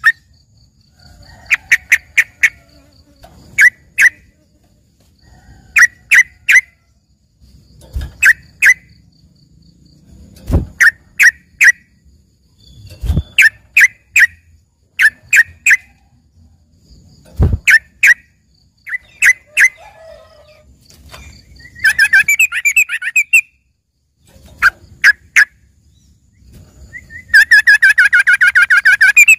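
Yellow-vented bulbul (trucukan) singing: short bursts of sharp, quick notes every second or two, with a fast chattering trill about two-thirds through and a loud, dense trill near the end. Its song is trained with borrowed phrases ('isian'), taken to sound like a greater green leafbird's. A few soft low thumps fall between the phrases.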